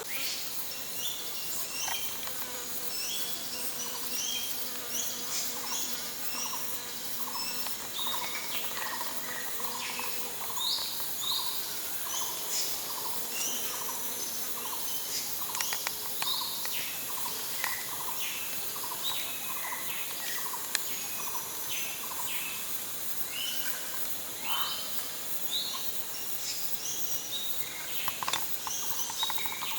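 Tropical forest ambience: a steady high drone of insects with many short, quick chirping calls scattered throughout, some from birds.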